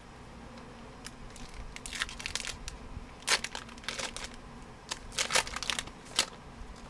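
Foil trading-card pack wrapper crinkling and cards being handled, in irregular crackles and snaps, the loudest about three seconds in and again about five seconds in.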